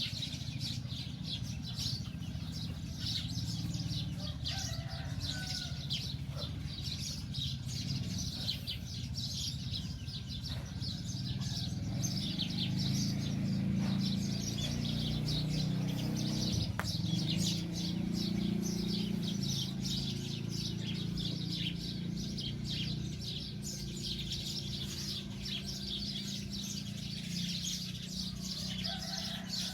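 Many small birds chirping, short high calls overlapping one another, over a steady low rumble.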